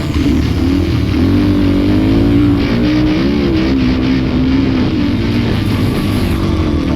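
Small off-road engine running and revving, its pitch rising and falling with the throttle.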